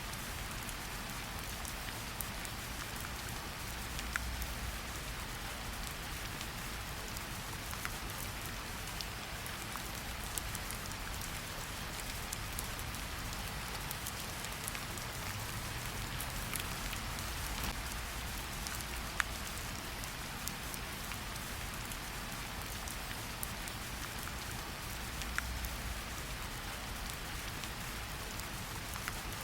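Steady forest rain falling, an even hiss with scattered individual drops ticking sharply here and there.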